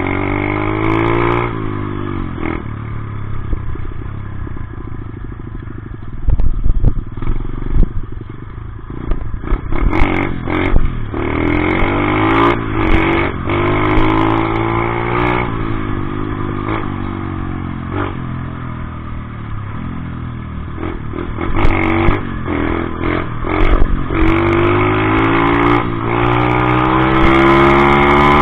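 Dirt bike engine revving up and dropping back again and again, as under hard acceleration and gear changes, with several sharp clattering knocks along the way.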